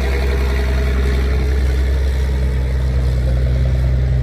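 Trial truck's engine running steadily at a low, even pitch.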